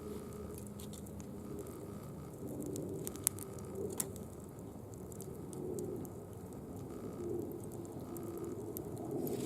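Leaf fire crackling with a few sharp pops, two of them loudest a little past the middle, while a dove coos faintly in the background.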